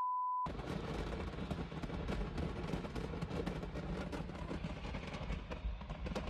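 A house's stock of fireworks going off in a burning building: a dense, continuous crackle of rapid pops over a low rumble. A short steady beep, a censor bleep, covers the first half second.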